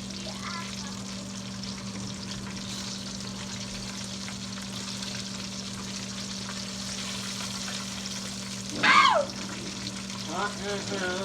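Chicken frying in hot oil, a steady sizzle over a low steady hum. About nine seconds in, a person gives a short loud cry that falls in pitch, and a voice follows near the end.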